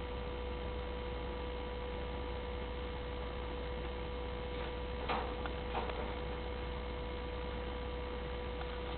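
Steady electrical hum with a constant tone, and two faint short scratchy sounds about five and six seconds in.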